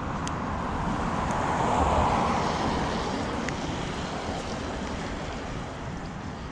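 City street ambience: a vehicle passes by, its tyre and engine noise swelling to a peak about two seconds in and then fading away.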